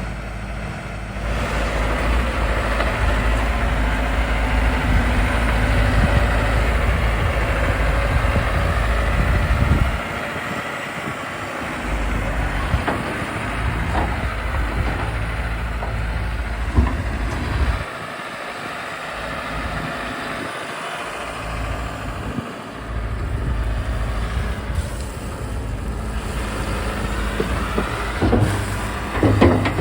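Farm tractor's diesel engine working steadily under load while its front loader digs gravel. The engine drops off briefly a few times, with occasional clanks.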